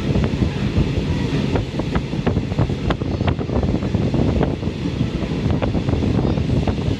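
Ride noise heard aboard a moving Thai State Railway train: a steady low rumble of wheels on the track with a rushing noise, and scattered sharp clicks and knocks from the track and carriage.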